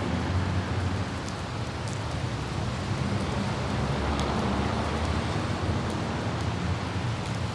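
Light rain falling with the steady low rumble of a car driving on wet city roads and wind. A few faint droplet ticks sound about a second, two seconds and four seconds in.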